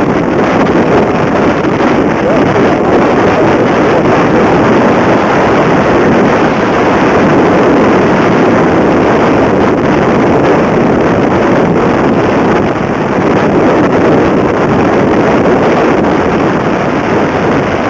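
Steady rush of wind on the microphone from a 2008 Kawasaki Ninja 250R motorcycle underway, with its parallel-twin engine running beneath the wind noise.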